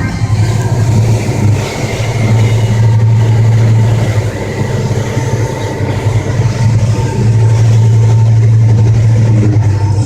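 Boat engine running under way, a loud steady low drone that swells louder at times, with a rushing hiss of noise over it.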